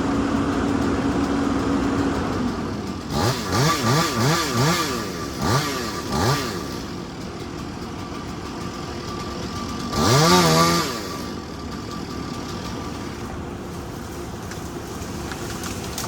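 A small engine revved in a quick run of about five short throttle blips, then once more, louder and longer, about ten seconds in, over a steady machine hum.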